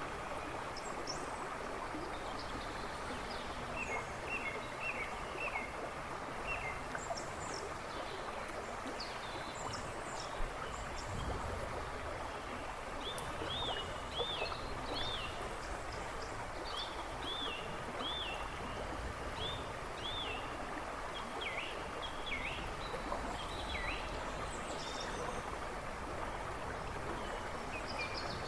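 A river rushing and babbling steadily, with songbirds chirping over it: short repeated chirps in quick runs, busiest through the middle.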